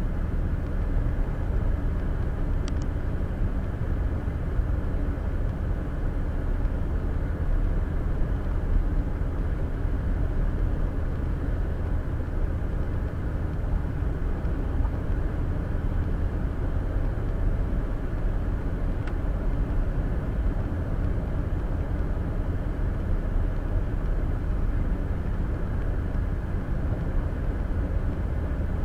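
Steady road noise of a car cruising at highway speed, heard from inside the cabin: a low, even rumble of tyres and engine.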